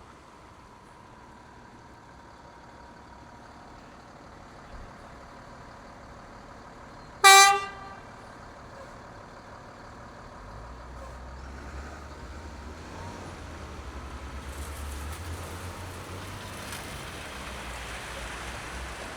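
A vehicle horn gives one short honk about seven seconds in, over steady street-traffic noise. From about ten seconds a low engine rumble sets in and road and tyre hiss on the snowy street grows louder.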